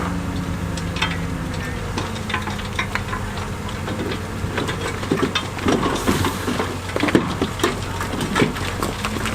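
Heavy diesel earthmoving machinery running steadily while stones clatter and knock against each other as they are dumped or pushed. The rattling of rock grows busier and louder about halfway through.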